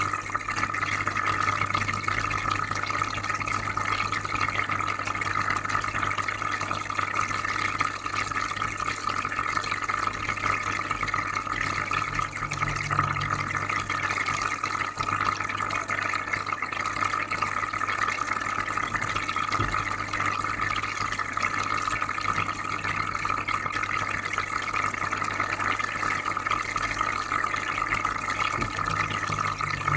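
Aquarium filter running: steady bubbling, trickling water over a low, constant hum.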